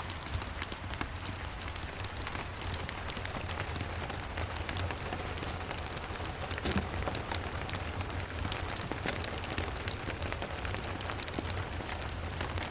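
Steady rain mixed with the scattered crackle of a wood fire, over a constant low rumble; one louder crack about seven seconds in.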